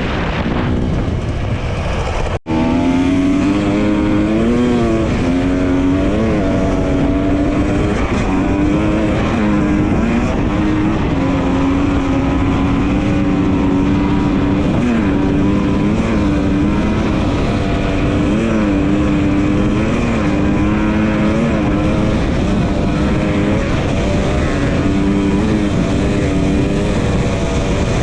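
Dirt bike engine running at riding speed, its pitch rising and falling a little with the throttle, over a steady rushing noise. There is a sudden brief break in the sound about two seconds in.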